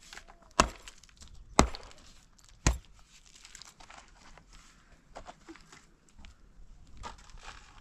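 Three sharp knocks about a second apart, followed by lighter clicks and rustling.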